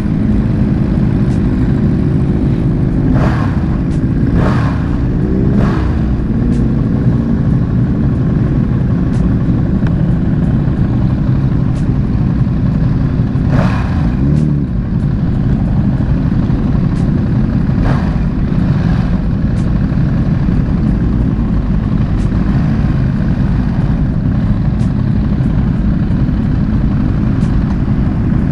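Ducati Streetfighter V2's 955 cc L-twin engine running steadily under way, with a few brief clicks along the way.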